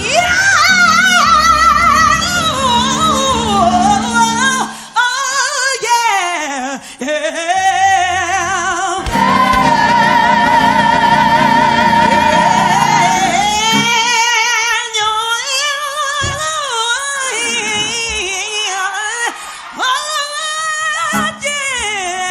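Female gospel vocal ad-libs: wordless, melismatic runs with a wide vibrato, including one long held high note from about nine to thirteen seconds. Low instrumental accompaniment sounds under the voice in the first five seconds, drops out, and returns under the held note.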